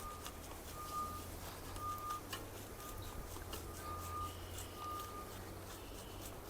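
A vehicle's reversing alarm beeping about once a second in a single high tone, over a low steady hum.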